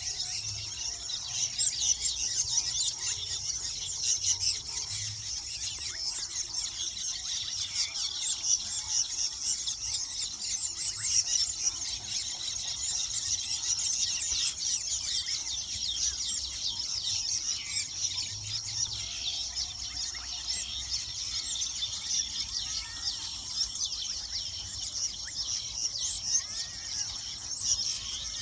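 A colony of weaver birds chattering: many high, squeaky calls overlapping in a dense, continuous din.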